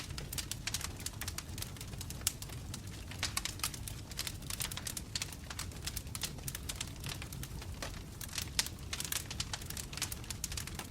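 Wood fire of burning logs crackling, with many sharp irregular pops over a low steady rumble.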